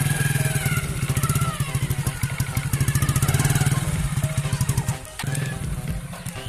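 Hero Splendor motorcycle's single-cylinder engine running steadily, stopping about five seconds in.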